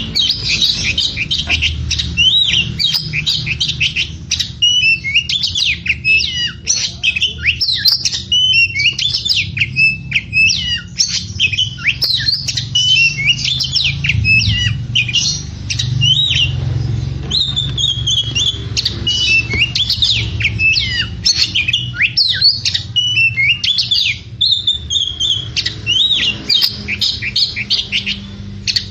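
Oriental magpie-robin (kacer) singing non-stop: a rapid, varied string of loud whistles, slurs and harsher squawk-like notes, over a steady low hum.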